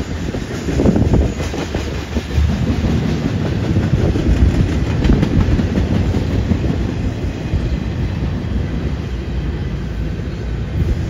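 Double-stack intermodal container well cars rolling past close by: a steady low rumble of steel wheels on rail, with the clickety-clack of wheels crossing the rails.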